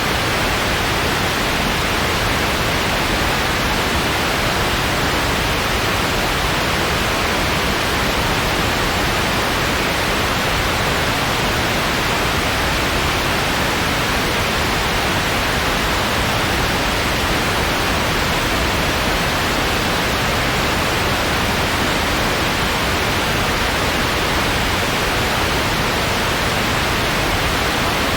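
Steady synthetic white noise, an even hiss with no change or events.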